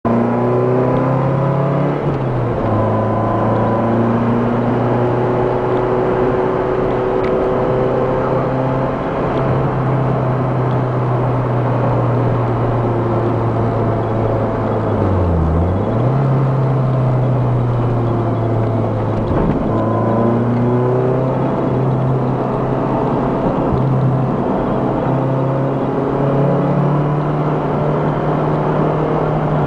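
Car engine heard on board a Lotus Elise 111S at racing speed, its note rising and falling steadily through the revs. Twice near the middle, about four seconds apart, the pitch dips sharply and comes back up, as at gear changes.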